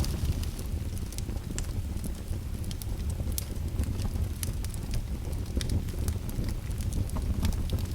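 Wood fire in a fireplace crackling, with frequent sharp irregular pops over a low steady rumble of the flames.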